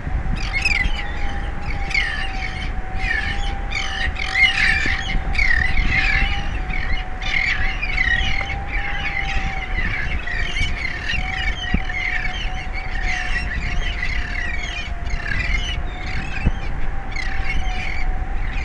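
A flock of birds calling continuously, many short overlapping squawks and chirps. Under them, a steady faint tone that wavers slightly in pitch, and a low wind rumble on the microphone.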